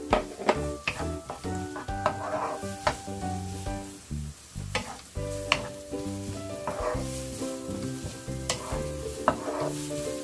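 Diced onion and garlic sizzling in olive oil in a nonstick frying pan, stirred with a wooden spatula that knocks and scrapes against the pan at irregular moments. The onions are being sweated until translucent.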